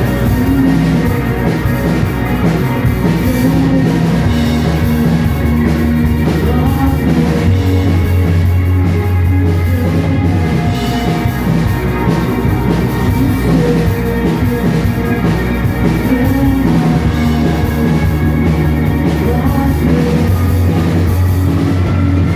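Live band playing a rock song, with a drum kit and long held bass notes that change every few seconds.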